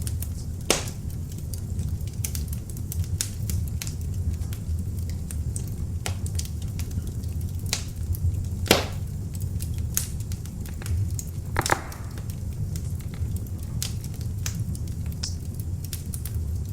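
Beech logs burning in an open fireplace: a steady low rumble of flame with frequent crackles and a few sharper pops, the loudest about nine seconds in.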